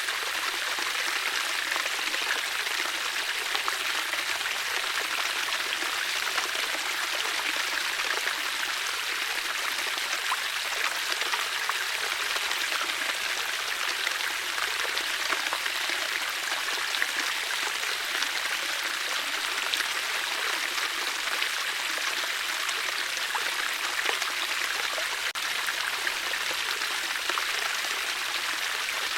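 Water flowing steadily, a continuous even rush and trickle of a stream.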